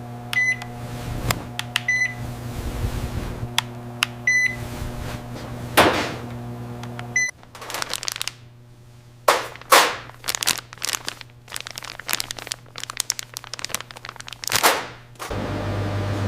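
An electrical appliance hums steadily, with four short high beeps over the first seven seconds. The hum then drops away into a run of sharp clicks and scrapes, and a steady mains-like hum starts again near the end.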